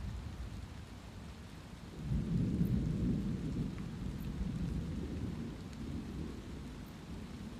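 Thunder rumbling low and long over light steady rain; the rumble swells about two seconds in and slowly dies away.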